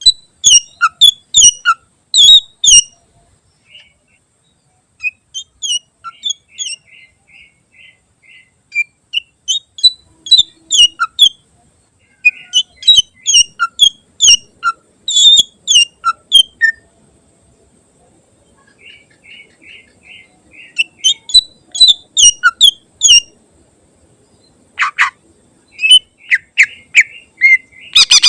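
Green leafbird (cucak ijo) singing loudly in bursts of sharp chirps and clicking notes, with rapid trills between phrases and a short pause in the middle; its song is a mix of mimicked calls of other birds.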